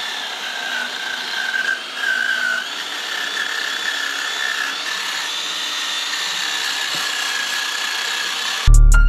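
Power tool running steadily, a wavering high whine over a rubbing hiss, as metal engine parts are being cleaned; it stops near the end.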